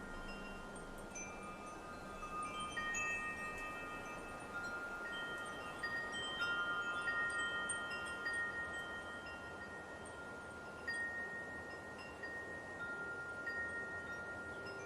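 Wind chimes ringing, with tones struck at irregular intervals and each one sustaining for several seconds, over a soft steady hiss of light wind.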